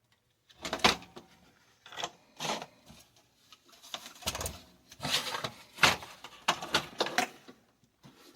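Handling noises: a run of irregular scrapes, rattles and knocks, about seven or eight in all, starting about half a second in.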